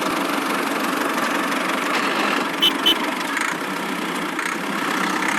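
Steady engine-like running noise, like a small vehicle idling, with two short high beeps about two and a half seconds in.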